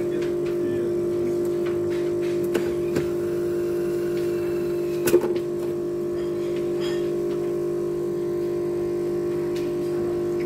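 Automatic coffee machine running with a steady hum while it makes a drink, with a few light clicks and a sharper knock about five seconds in.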